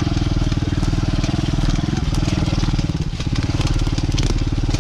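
DB14 youth dirt bike's engine running as it is ridden, a steady fast-pulsing note that dips briefly a couple of times, with light ticking over it.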